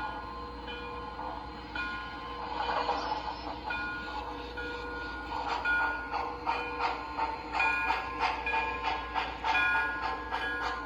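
The ProtoSound 2 sound system of an MTH Premier USRA Pennsylvania 0-6-0 O-gauge model steam locomotive playing steam-engine sounds. Chuffs come at a regular beat, about two a second, from about five seconds in, with several steady tones sounding on and off.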